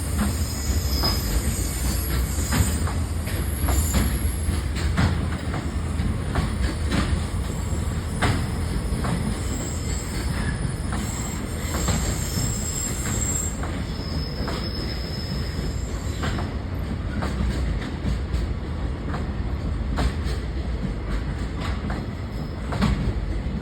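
Koki container wagons of a freight train rolling past with a steady rumble. Wheels click over rail joints at regular intervals. Thin high-pitched wheel squeals sound through the first half or so, then die away.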